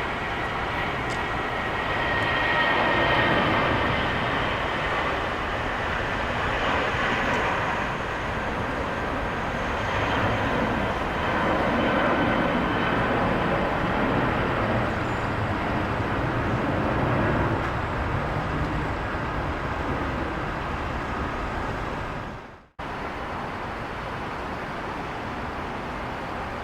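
Jet airliner engines running loud and steady, with a faint high whine early on. Near the end the sound cuts off abruptly and a quieter steady rumble follows.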